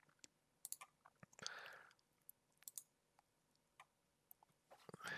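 Near silence broken by faint, scattered computer mouse clicks, with a brief soft hiss about a second and a half in.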